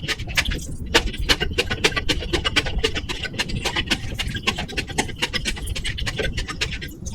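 Close-miked eating sounds: rapid wet clicks of chewing and mouth noise. Underneath runs a steady low rumble and crackle from a faulty microphone and cable.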